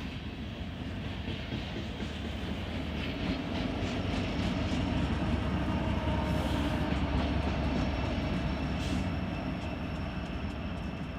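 Loaded coal train rolling past with a steady low rumble of wheels and diesel locomotives. The rumble swells towards the middle and eases near the end.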